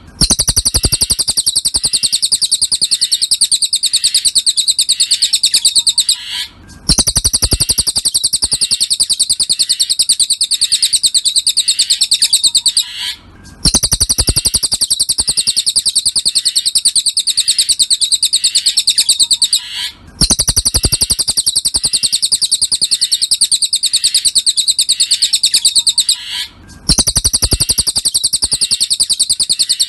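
Cililin bird song: a rapid, high, unbroken chattering trill in long bouts of about six seconds, each followed by a short break, repeating evenly four times, as in a looped training recording for songbirds.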